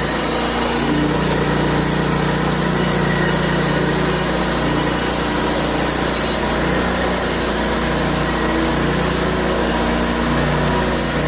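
Portable band sawmill's small gasoline engine running steadily under load as the blade saws boards from a log.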